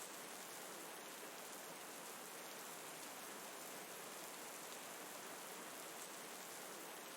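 Steady rain, a faint, even hiss, blended with flowing river water as an ambient soundscape.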